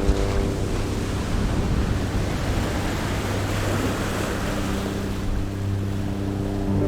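A rushing, surf-like wash of noise that swells toward the middle and fades, while the held chords of background music drop out and come back near the end.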